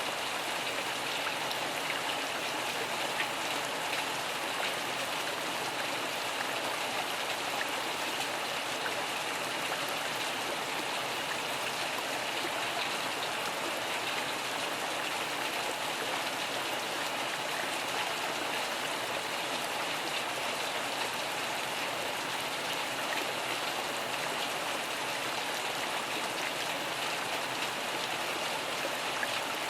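Steady rain falling, an even, dense hiss of drops that holds at one level throughout.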